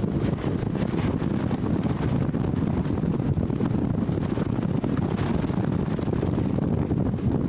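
Strong wind buffeting the microphone: a steady, fluttering low rumble.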